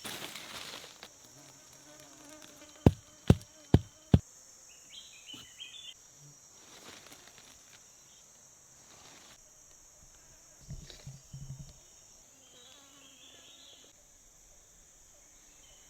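Steady high-pitched insect drone, with four sharp knocks in quick succession about three seconds in.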